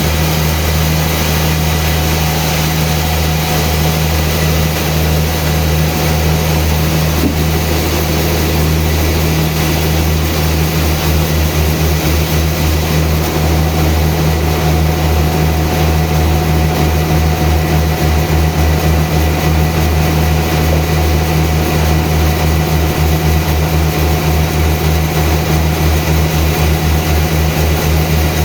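Sawmill machinery running steadily, a loud low engine drone. About a third of the way in it takes on a fast, even pulse.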